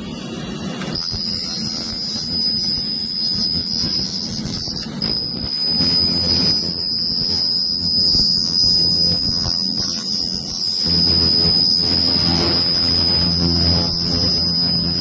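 Laser cleaner running on engine parts: a steady high-pitched whine over a lower, rougher noise. The whine starts about a second in and drops out briefly about five seconds in.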